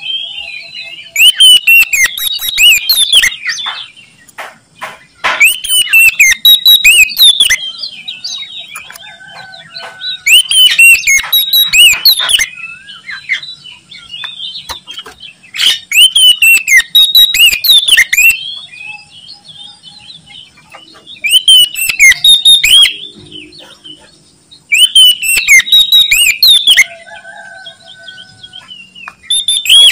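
Oriental magpie-robin (kacer) singing loudly in six rich, varied phrases of about two seconds each, a few seconds apart, with softer chirps between them.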